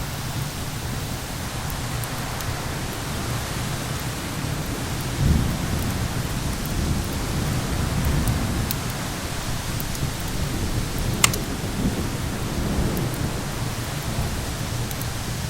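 Steady rain-and-wind hiss under rolling thunder, which swells about five seconds in and again near eight seconds. Faint crackles of a wood fire sound throughout, with one sharp pop about eleven seconds in.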